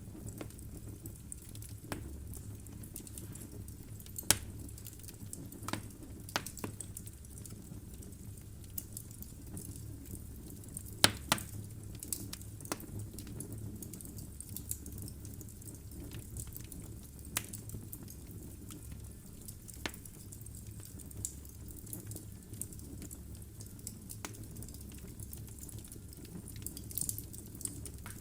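Logs burning in a fireplace, crackling and popping irregularly over a low steady rumble of the flames, with a few louder pops about four and eleven seconds in.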